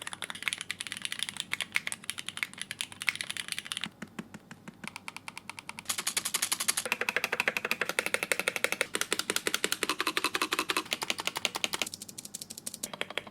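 Fast typing on mechanical keyboards, dense rapid key clicks, with the sound of the keys changing every few seconds as one keyboard gives way to the next. The typing is loudest and brightest from about six seconds in, then changes again near the end.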